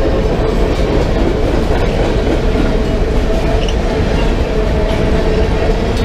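Freight train rolling past, its cars making a steady loud rumble on the rails with two steady ringing tones running through it.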